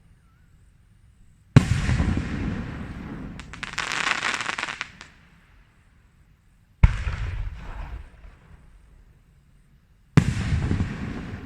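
Fireworks going off at close range: three sharp, loud bangs a few seconds apart, each trailing off in a long rumbling echo, with a dense crackling burst a couple of seconds after the first bang.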